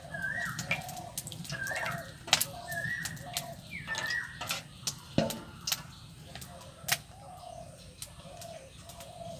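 A bird calls over and over, a short call repeated about once a second, with a few sharp clicks and a knock.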